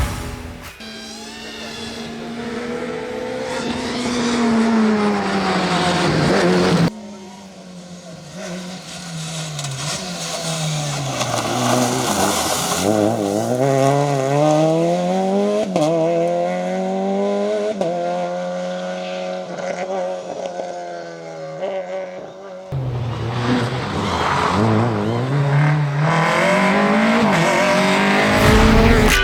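Peugeot 208 R2 rally car's four-cylinder engine revving hard, pitch climbing and dropping through gear changes. It comes in several short stretches that cut off abruptly from one to the next.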